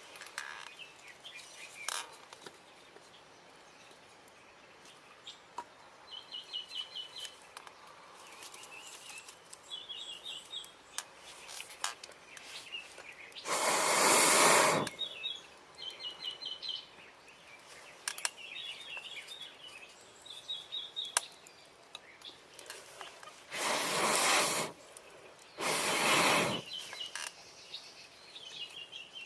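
Small birds calling with short repeated trills over a quiet outdoor background. Three loud hissing rushes of air, each about a second long, break in: one near the middle and two close together later on.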